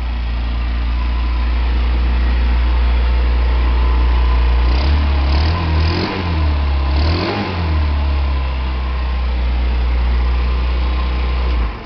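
Freshly rebuilt GY6 50cc single-cylinder four-stroke scooter engine idling just after a cold start, revved up and down twice about halfway through, then shut off just before the end.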